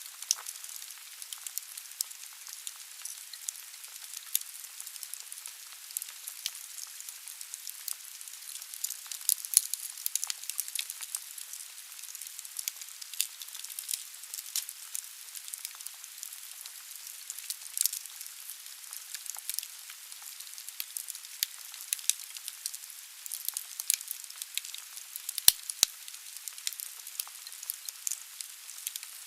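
Firewood burning in a fireplace: a steady hiss of the flames with dense, irregular crackles and sharp pops, some much louder than others.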